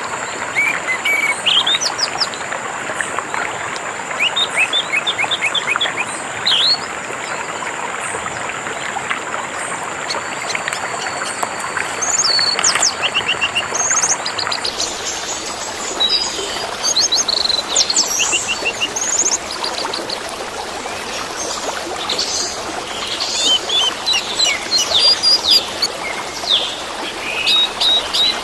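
An orange-headed thrush sings varied phrases of fast chirps, slurred whistles and trills over a steady wash of running water. The singing gets busier in the second half.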